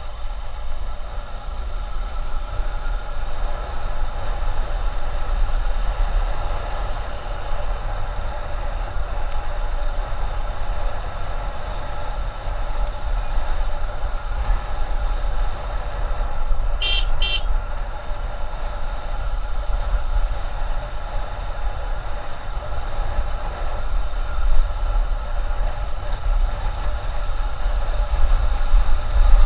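Motorcycle riding at highway speed: the engine runs steadily under heavy wind rumble on the microphone. Two short horn beeps come in quick succession about 17 seconds in.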